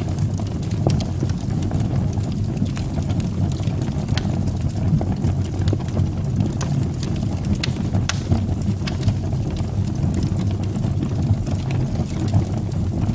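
Fire burning in a fireplace: a steady low rumble of flames with scattered small crackles and pops.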